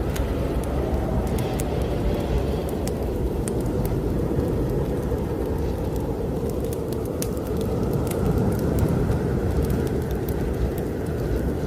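Blizzard wind blowing hard in a steady low rush that swells and eases, mixed with frequent sharp crackles and pops from a wood fire burning in a fireplace.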